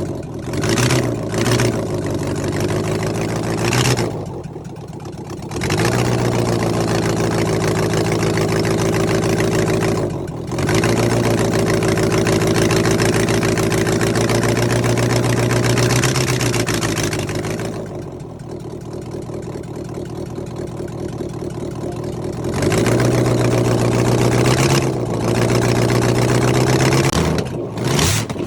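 Land Rover Defender's 3.5-litre Rover V8 being revved: a few quick blips at first, then held steady at raised revs for several seconds at a time, dropping back toward idle for a few seconds past the middle before rising again, with more quick blips near the end.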